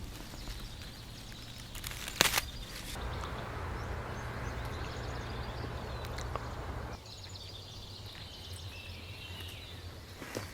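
Forest ambience with small birds calling. There is a sharp knock about two seconds in, and a few seconds of rushing noise in the middle that starts and stops abruptly.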